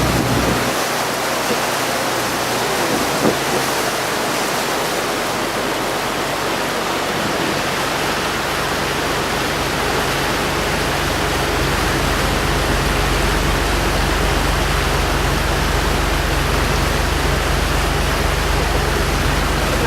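Steady rushing noise of wind and water on a tour boat moving across the lake, with the boat's low engine rumble dropping away about half a second in and building back up from about ten seconds on.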